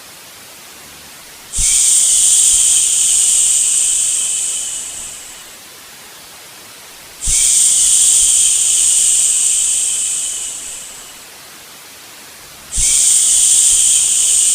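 Three long "shhh" shushing sounds, about five and a half seconds apart, for soothing a baby to sleep. Each starts abruptly, lasts about four seconds and fades out, over a quieter steady white-noise hiss.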